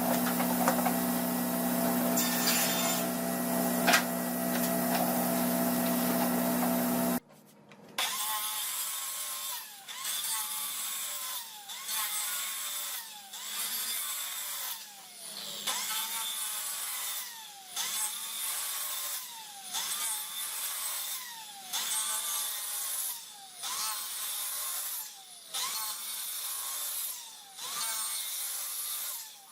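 A power tool's motor runs steadily for about seven seconds, then a hand saw cuts wood in regular strokes, about one a second, each stroke carrying a falling tone.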